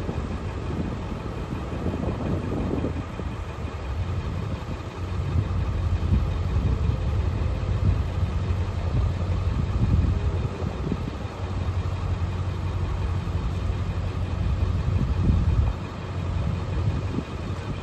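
A vehicle driving: a steady low engine and road rumble.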